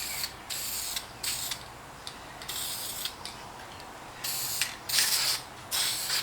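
Aerosol can of enamel paint sprayed in several short hissing bursts, coating the edge of a mirror glass to protect its silvering.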